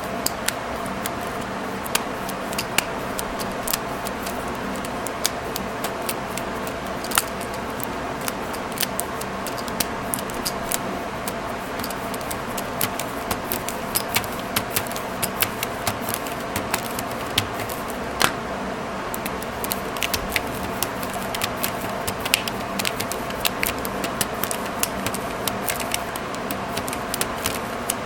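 Small metal clicks and snaps, irregular and many, as a staple remover is handled and worked, over a steady background hum.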